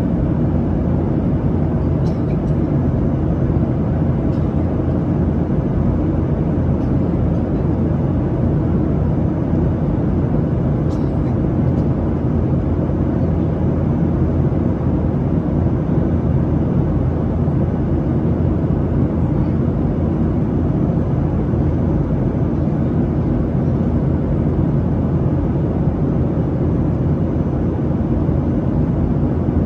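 Steady roar of a Boeing 737-700's CFM56-7B jet engines and rushing air, heard inside the cabin from a window seat. There are faint clicks about 2 and 11 seconds in.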